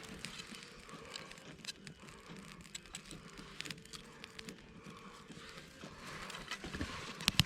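A small, freshly lit wood fire crackling, with irregular sharp pops and ticks and one louder pop near the end.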